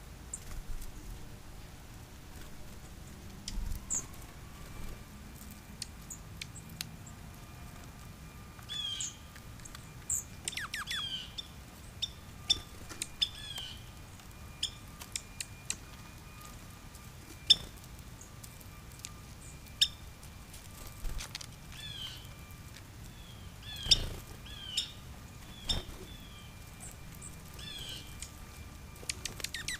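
Small birds chirping and calling in short, repeated notes, mixed with sharp ticks and taps, as they feed.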